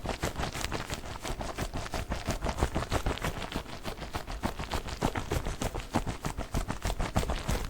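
Hands working a giant orbeez (water-bead) ball fast for ASMR: a rapid, uneven run of short taps, several a second.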